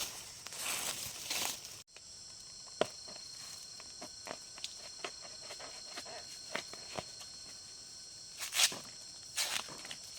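Crunching and rustling for about two seconds, then after an abrupt break a steady high-pitched insect chorus, with scattered light clicks and two louder crunches near the end.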